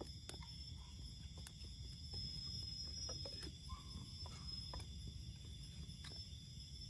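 A steady, high insect chorus from the forest, with scattered faint clicks and knocks over a low rumble.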